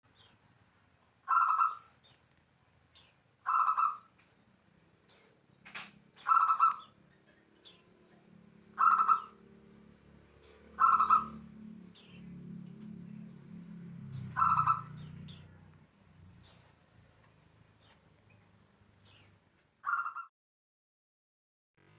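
A bird calling repeatedly, short calls every one to two seconds, each a low note paired with a sharp high chirp. The calls stop near the end.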